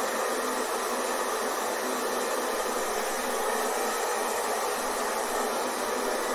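Hair dryer running steadily, a continuous even whooshing of fan and blown air with a faint hum, played as white noise to soothe a baby to sleep.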